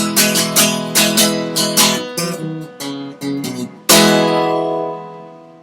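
Acoustic guitar strummed in an even rhythm, then a few single picked notes, then a final strummed chord that rings out and fades away, ending the song.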